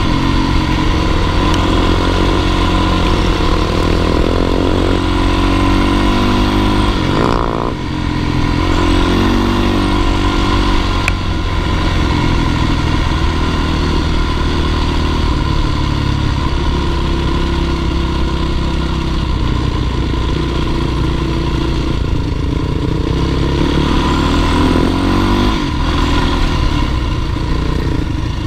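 Dirt bike engine running hard under load, its pitch rising and falling with the throttle. It eases off briefly about seven seconds in, then picks up again.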